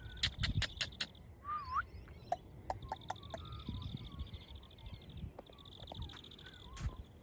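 Birds calling: a high, buzzy trill heard three times and a short curling whistle about a second and a half in, among scattered chirps. A few sharp clicks come near the start.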